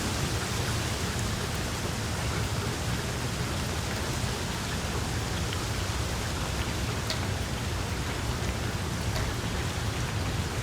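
Small wood fire in a fireplace crackling: a steady hiss with scattered small pops, a sharper pop about seven seconds in.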